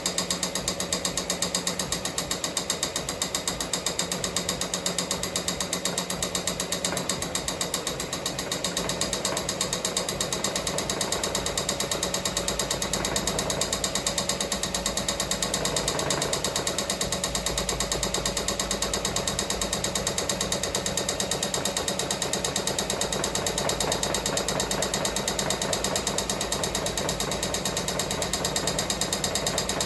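Ricoma MT-1501 embroidery machine stitching at speed, a rapid, even mechanical chatter of needle strokes. It is running a design after its rotary hook timing was reset.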